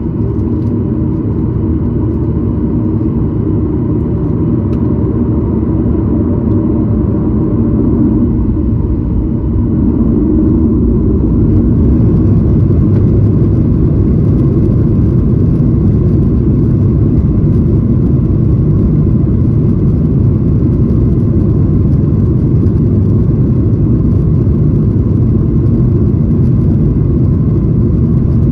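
Cabin noise of a Boeing 737-900ER: its CFM56-7B jet engines and the rushing air, heard from inside the cabin as a loud, steady rumble with a faint whine above it. It grows louder about ten seconds in and then holds steady.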